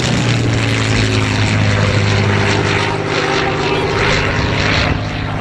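Supermarine Spitfire Mk XI in flight, its Rolls-Royce Merlin piston engine and propeller giving a loud, steady drone.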